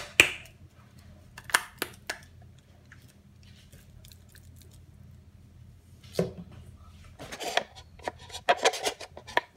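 Seasoning shakers being handled and shaken over raw salmon fillets: a few sharp clicks at first, a quieter stretch, then a busier run of quick ticks and rattles near the end.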